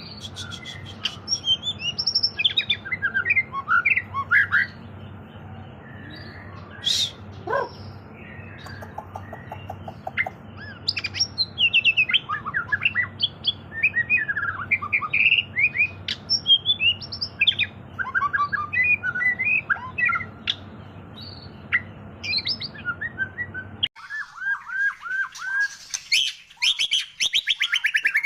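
White-rumped shama (murai batu) singing a continuous, varied song of rapid whistled phrases and chattering notes. A steady low hum runs under the song until the recording cuts about 24 seconds in, and the song goes on without it.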